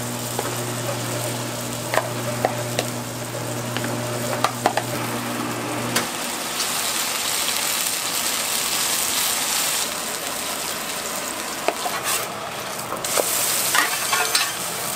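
Jeon batter frying and sizzling on a large iron griddle, with scattered sharp clicks and scrapes of metal on the griddle. A steady low hum stops about six seconds in, and the sizzle gets brighter after that.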